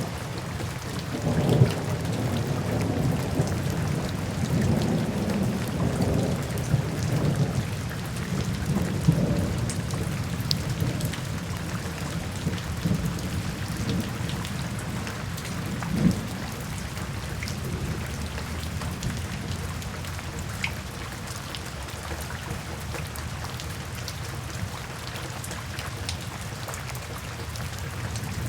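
Steady rain falling, with low thunder rumbling in swells that are strongest in about the first ten seconds. Small sharp crackles from a fireplace sound now and then.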